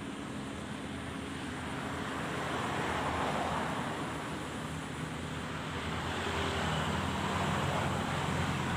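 A steady engine hum with background noise, swelling a little about a third of the way in and again near the end.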